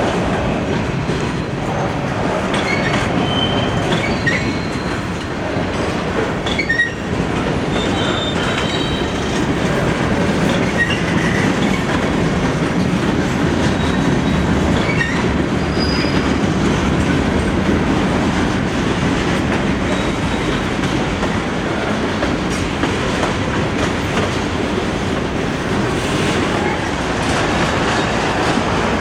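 Freight cars rolling past on a CSX main line: a steady rumble and clatter of wheels on rail, with short high squeals from the wheels here and there.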